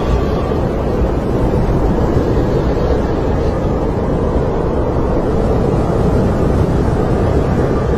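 Snowstorm wind blowing steadily, a deep, even rumble with no gusts or breaks.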